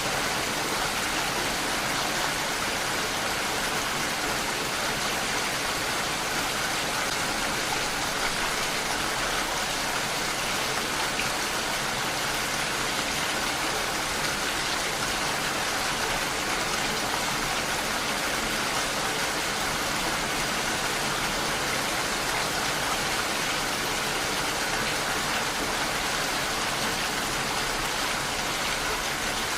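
Steady, even rain noise with no breaks.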